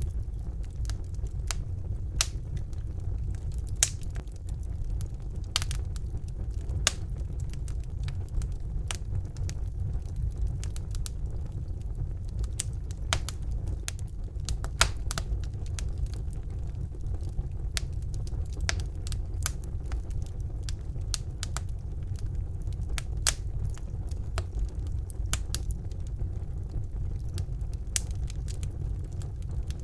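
Wood fire burning in a fireplace: a steady low rumble of the flames with irregular sharp crackles and pops, a few of them louder.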